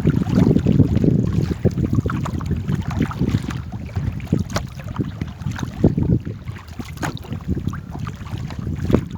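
Wind buffeting the microphone in an uneven low rumble, with scattered small knocks and splashes over water.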